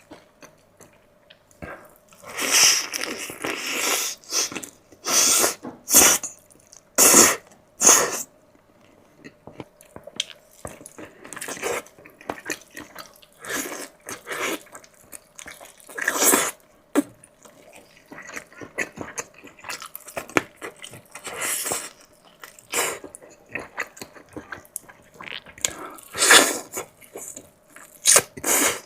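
Close-miked eating of fried chicken and river-snail rice noodles: irregular bites, chews and mouth noises come in uneven bursts, some of them loud. A faint steady hum sits underneath.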